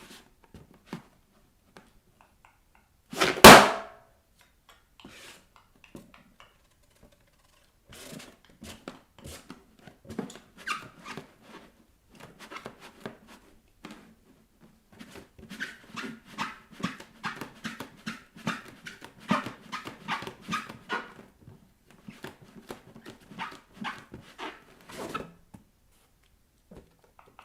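A rubber balloon bursts with one loud pop about three seconds in. After that come many quieter taps, rubs and squeaks of bare feet working on a balloon.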